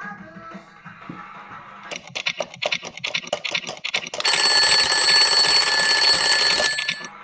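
Quick clicking for about two seconds, then a loud, steady alarm-bell ringing that cuts off suddenly after about three seconds.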